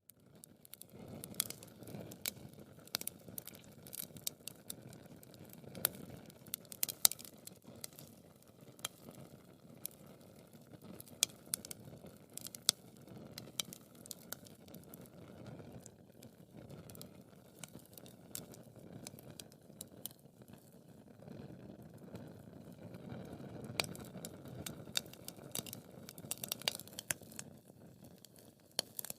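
Wood fire crackling in a fireplace: sharp pops and snaps at irregular intervals over a soft steady hiss of burning logs.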